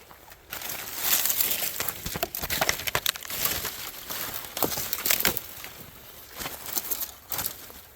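Footsteps crunching over frozen ground, an irregular run of crackling, scraping steps.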